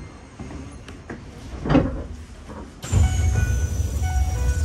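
Keisei Main Line local train heard from inside the carriage, rolling into Funabashi Keibajo station. About three seconds in, the running rumble suddenly gets louder and a high whine falls slowly in pitch as the train slows.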